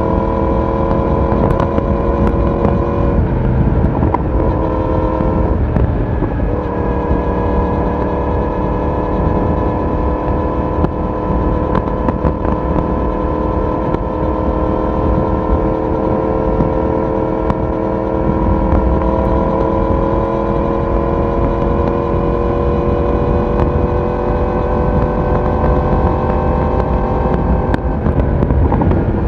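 Yamaha YZF-R1 inline-four sport bike engine under way at cruising speed. Its note breaks off briefly a few seconds in, as on a gear change, then comes back and climbs slowly and steadily in revs.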